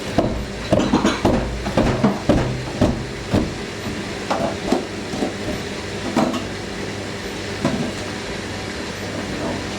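Hoover NeXtra washing machine drum banging and knocking against the cabinet over a steady motor hum, several knocks a second at first, thinning to occasional knocks after about four seconds. The banging comes from the machine's broken shock absorbers failing to damp the drum.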